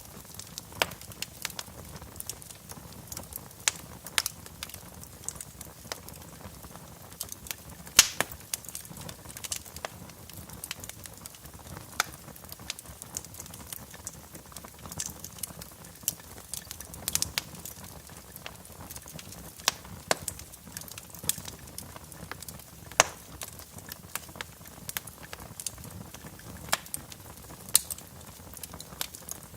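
Wood fire in a fireplace crackling, with irregular sharp pops every second or so over a faint low rumble; the loudest pop comes about eight seconds in.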